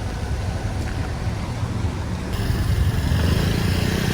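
Road noise inside a moving taxi: a steady low engine and tyre rumble that grows louder, with more hiss, about two seconds in.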